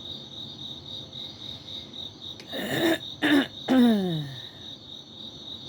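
Crickets chirping steadily in a pulsing high trill. About two and a half seconds in a woman coughs or clears her throat twice, then makes a short vocal sound that falls in pitch.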